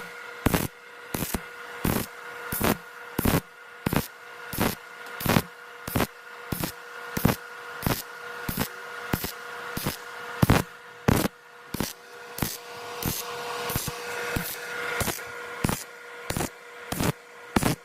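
Robotic MIG welding arc in DAIHEN's StitchPulse mode: the arc fires in short crackling bursts about one and a half times a second, with a steady electrical hum between the bursts.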